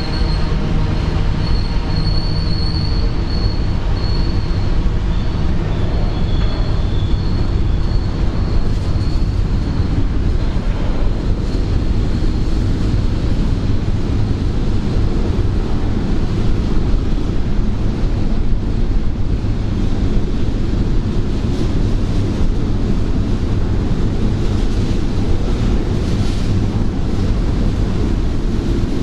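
Freight train rolling past on the rails. A high steady wheel squeal is heard for the first several seconds, then the cars keep up a continuous low rumble.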